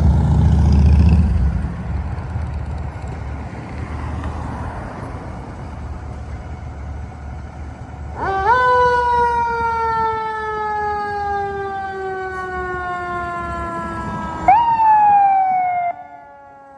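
Fire engine responding: a loud, low engine rumble that fades away, then its siren, which winds up quickly and slowly falls in pitch, winds up once more a few seconds later, and cuts off suddenly.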